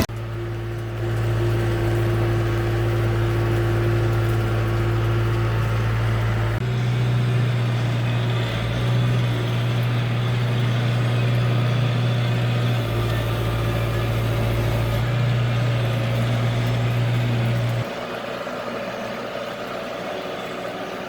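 Branson tractor's diesel engine running steadily under load, pulling a tree planter; its pitch rises slightly about a third of the way through, and the sound drops to a quieter hum near the end.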